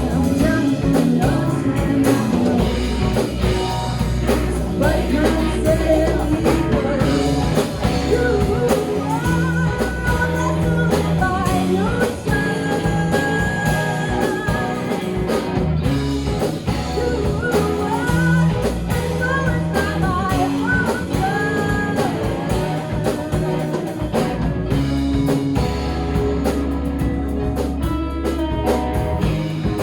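Rock band playing live, with guitar over a heavy bass and drum beat and a wavering melody line in the middle of the passage.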